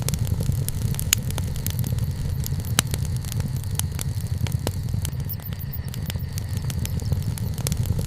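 Wood campfire crackling, with irregular sharp pops, two of them louder about a second and about three seconds in, over a steady low rumble.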